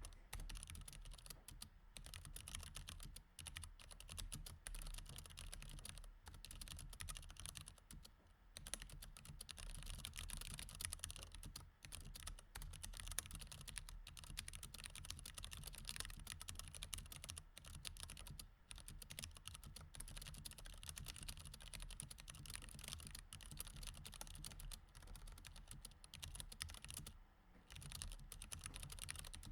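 Mechanical keyboard with Cherry MX Red switches being typed on steadily in quick, continuous key clicks, pausing briefly about eight seconds in and again near the end.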